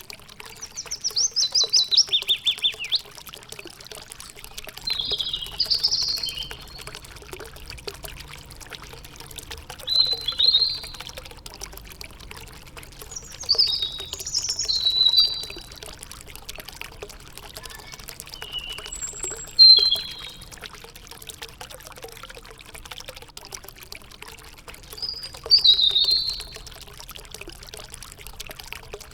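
Songbirds singing in short phrases every few seconds, the first a fast trill that falls in pitch, over a steady trickle of flowing water.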